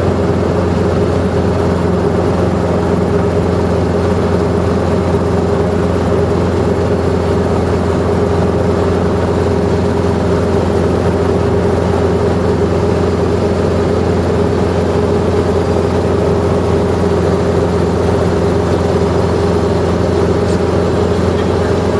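Helicopter engine and rotor running at a steady pitch and level, with an unchanging low hum.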